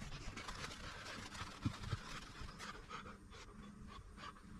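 Faint scattered light knocks, clicks and scratching from hands working, with a cluster of small taps in the second half.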